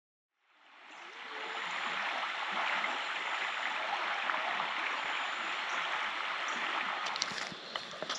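Albert River flowing, a steady rush of water that fades in from silence about half a second in, with a few sharp clicks near the end.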